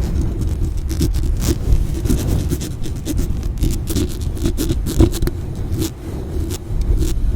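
Aggressive scratching and brushing directly on a microphone: rapid, irregular scraping strokes over a heavy rumble of handling noise, loud throughout.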